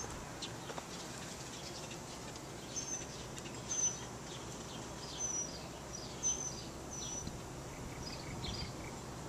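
Small birds chirping: a scattering of short, high, slightly falling chirps, several of them clearer around the middle, over a steady outdoor hiss.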